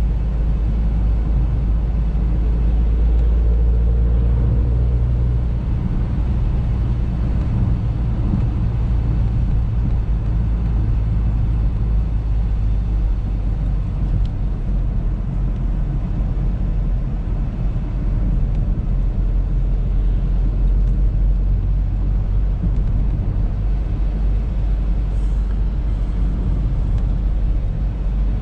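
Audi A3 being driven: a steady low rumble of engine and road noise, with a faint rising tone briefly a few seconds in.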